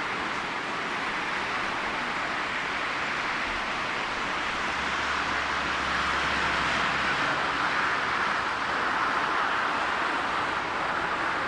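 Steady rushing noise of distant jet aircraft, growing a little louder for a few seconds in the middle.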